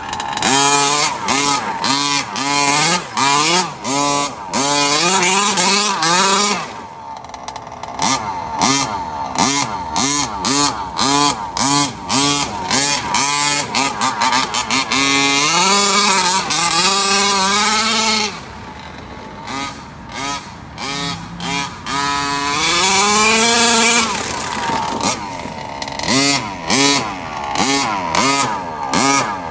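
Small two-stroke gas engine of a 1/5-scale RC car, the stock Losi 5ive-T 2.0 engine breathing through a Dominator tuned pipe, revved over and over in short throttle blips and longer climbing pulls, its pitch rising and falling. It drops back to a quieter, lower steady running briefly about a quarter of the way in and again for several seconds past the middle.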